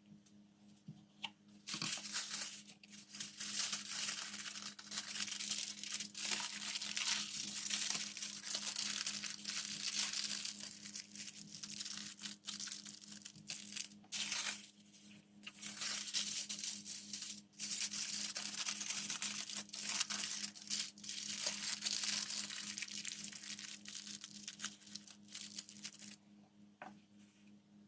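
Packaging crinkling and tearing as it is handled, in long rustling stretches with short pauses, starting about two seconds in, over a faint steady hum.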